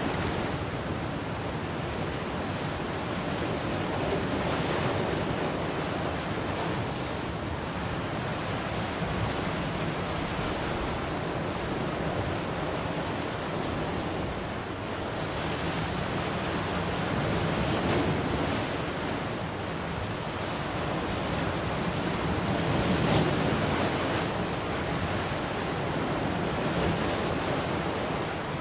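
Ocean waves breaking and washing on the shore in a continuous surf roar, swelling gently as each wave comes in, with some wind on the microphone.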